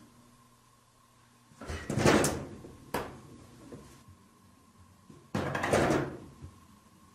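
Wooden shoji sliding door rattling in its frame as a cat paws at it: two short bursts about three and a half seconds apart, with a sharp click between them.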